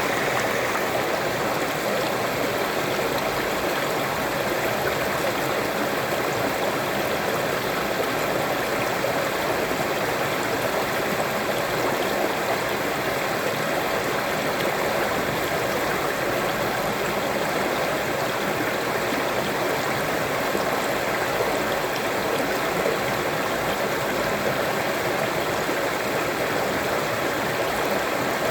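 Waterfall water running with a steady, unbroken rushing noise that neither rises nor falls.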